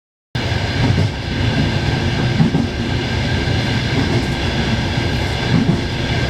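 Train running steadily: a continuous low rumble with irregular low thuds and a faint steady whine above it, cutting in suddenly after a brief silence at the start.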